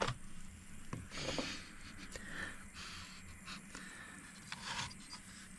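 A person sniffing the air a few times, short breathy sniffs checking for the smell of burning electronics, with a few faint clicks.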